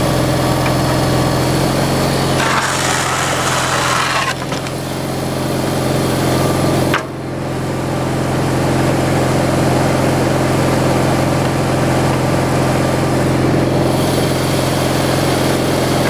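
Engine running at a steady speed, with a brief higher rushing noise about two and a half seconds in and a sharp click about seven seconds in.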